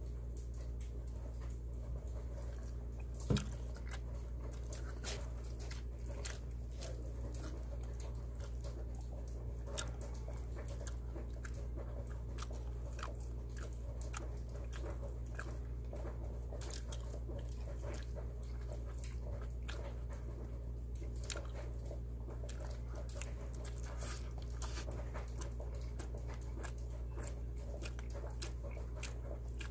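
Close-miked chewing of a slice of pizza, with wet mouth clicks and smacks scattered irregularly, over a steady low hum. A single sharp knock about three seconds in is the loudest sound.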